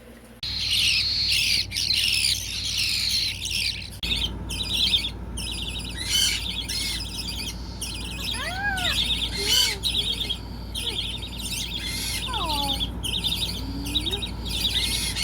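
A flock of Indian ringneck parakeets chattering and squawking, starting abruptly, with a dense run of high calls and then separate rising-and-falling calls over a low steady hum.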